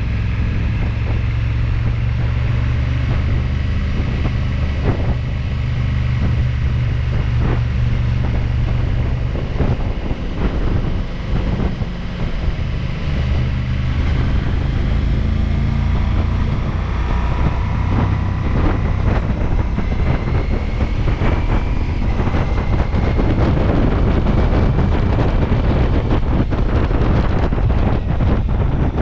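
Ducati Multistrada V4S's V4 engine running under way, with wind rushing over the microphone. The engine note climbs a few times as the bike accelerates, and the wind gets louder in the last third.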